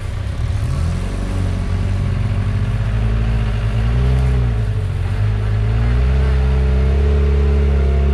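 Off-road vehicle's engine revving up, its pitch dipping and rising a couple of times, then climbing about three quarters of the way through and holding steady at higher revs.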